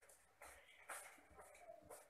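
Faint, scratchy short calls and clicks from a Jalak Batam myna, a few separate notes with the sharpest one about a second in.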